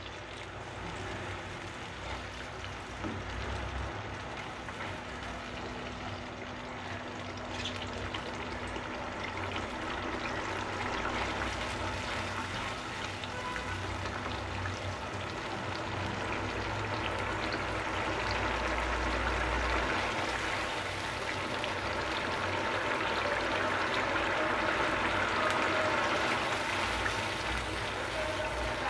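Spice paste sizzling in hot oil and ghee in a nonstick pan while being stirred with a plastic slotted spatula, being cooked down. The sizzle grows a little louder toward the end.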